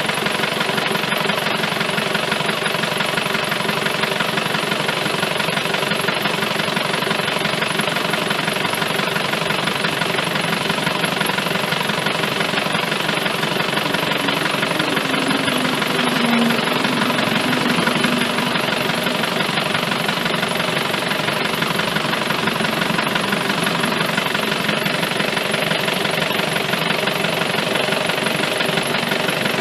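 Isuzu D-Max engine idling steadily with a fast, even clatter.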